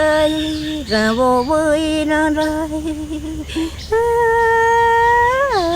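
A woman's voice singing a slow, wordless-sounding melody: notes held for a second or more, joined by quavering turns and slides, with one long held note near the end that glides down.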